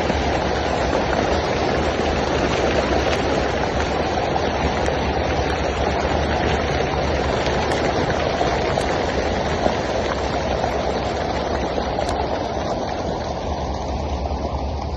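Steady rushing and splashing of a water fountain's jets, with a low rumble underneath.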